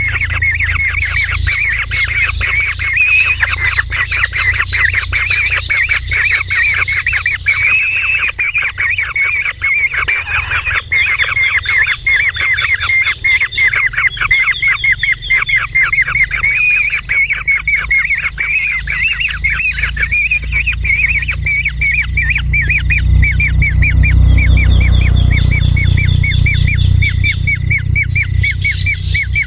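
A bird calling in a fast, unbroken series of short, high chirps, several a second, over a steady high-pitched buzz and a low rumble that swells near the end.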